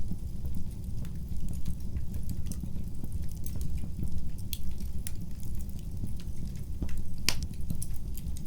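Wood fire in a fireplace crackling: a steady low rumble of burning with scattered sharp pops, one louder pop about seven seconds in.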